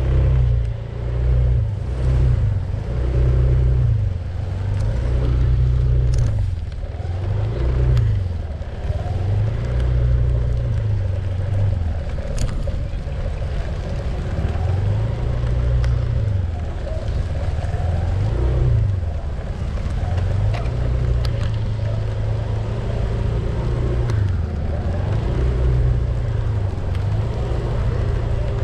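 A vehicle being driven along, a steady low drone that rises and falls every few seconds as it goes.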